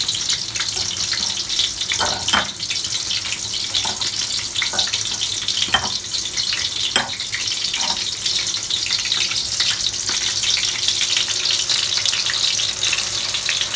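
Breaded chicken cutlets deep-frying in oil in a wok, a steady sizzle. A few sharp clicks in the first eight seconds, a fork tapping against a bowl while another piece is coated in breadcrumbs.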